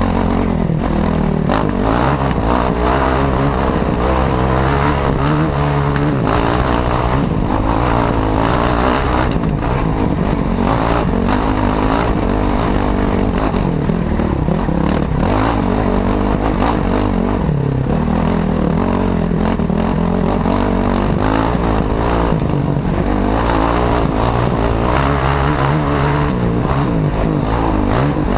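Enduro dirt bike engine running hard on a stony uphill track, its pitch rising and falling with the throttle. Short rattles from the bike jolting over loose stones are heard over it.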